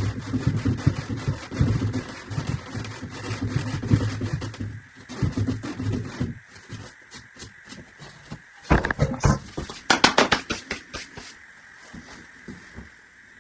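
Sandpaper rubbing back and forth on a plastic drain pipe, roughening it for solvent cement, in quick repeated strokes for about six seconds. It then stops, and a cluster of sharp clicks and knocks follows a few seconds later.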